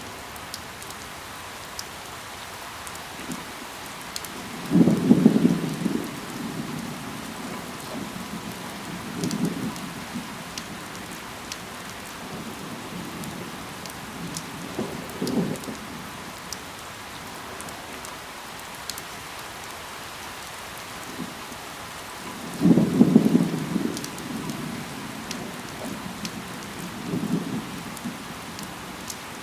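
Steady rain falling on leaves, with scattered drop ticks and short low rumbles that swell every few seconds, the loudest about five seconds in and again about twenty-three seconds in.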